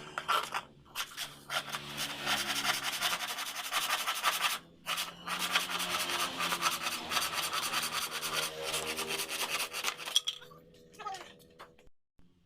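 Wood being worked by hand with quick, continuous abrasive scraping strokes, pausing briefly about halfway through and stopping a couple of seconds before the end.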